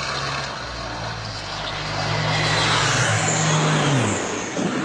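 Aircraft engine passing close by, growing louder and then dropping in pitch near the end as it goes past.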